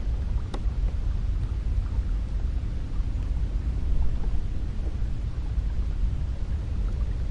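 Cold wind sound effect: a steady, deep rush of wind, heaviest in the low end, with a faint tick about half a second in.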